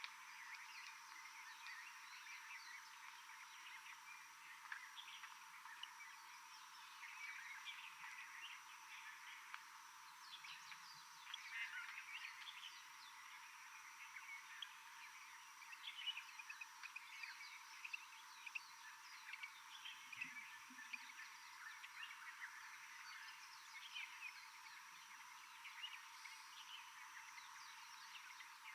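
Faint rainforest animal chorus: many small overlapping chirping calls over a steady high-pitched hum.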